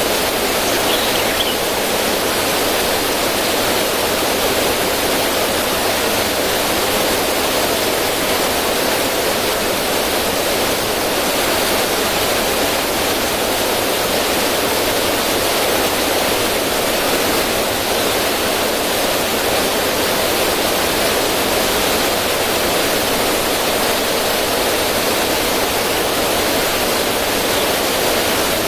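River current rushing and splashing over rocks in a small cascade: a steady, unbroken noise of running water.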